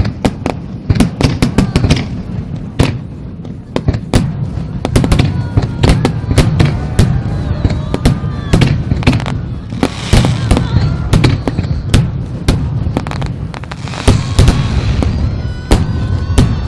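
Aerial fireworks bursting in rapid succession, sharp bangs over a deep rolling rumble, with stretches of crackling fizz about ten seconds in and again near the end. A crowd's excited voices rise and fall underneath.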